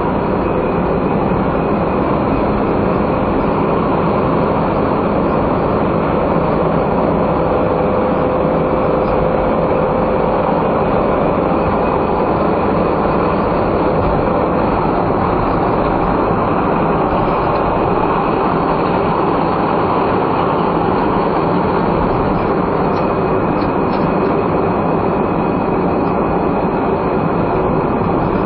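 Steady engine and road noise of a non-turbo kei car driving at a constant pace, heard from the onboard camera, with no changes or impacts.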